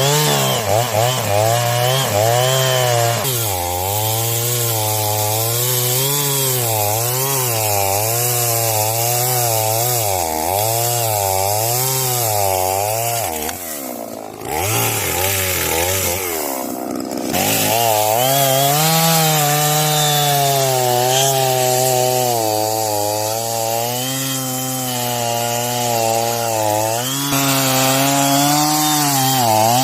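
Efco MT3710 two-stroke chainsaw running at high revs through wood, its engine pitch wavering up and down as the cut loads it. About halfway through the engine note drops and breaks briefly, then comes back to a steadier high speed.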